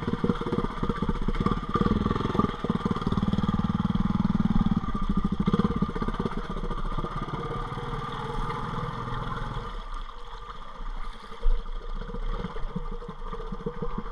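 ATV engine running at low throttle as it wades through deep floodwater. Its low rumble eases off about ten seconds in, and there is one short knock shortly after.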